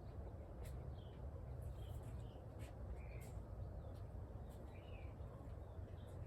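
Wild birds calling in short, scattered chirps over a steady low rumble, with a few sharp clicks.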